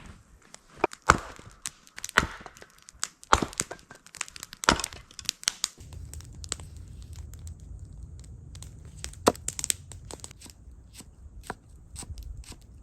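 Sharp cracking and tearing sounds, roughly one a second for the first five seconds, then a low rumble with scattered clicks and snaps from about six seconds in.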